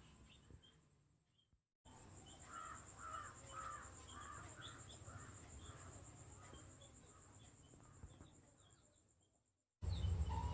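A crow cawing in the background, a quick run of several caws that trail off, with faint small-bird chirps.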